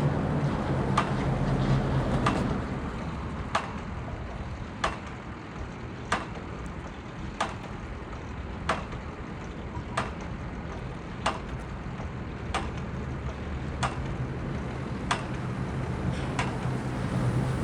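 Geotechnical drilling rig on a barge, heard from a distance: sharp, even knocks about one every 1.3 seconds over a steady low engine hum. The hum fades a couple of seconds in and returns near the end.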